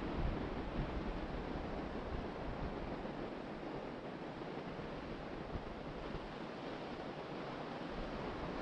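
Ocean surf washing onto the beach in a steady wash of noise, with wind buffeting the microphone in low rumbling gusts that are strongest near the start and ease off in the middle.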